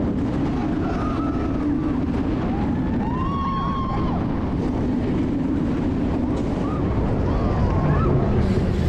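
Wind buffeting the microphone over a steady low rumble. A few short high cries glide up and down about a second in, around three seconds, and again near the end.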